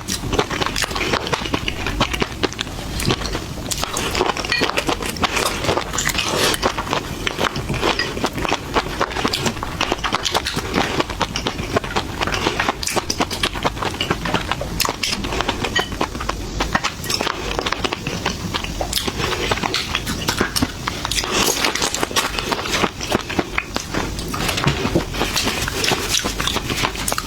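Eating seafood: a dense, continuous run of small cracks, crunches and clicks from shells being broken and chewed.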